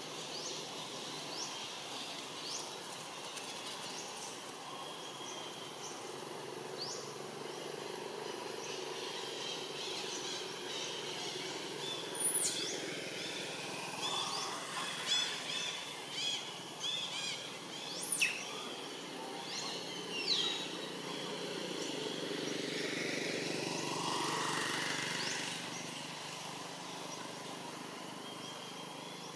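Outdoor tree-canopy ambience: a steady background hiss with scattered short bird chirps. The chirps thicken into a quick run about halfway through, with two sharp high notes standing out, and a broad swell of noise rises and fades near the end.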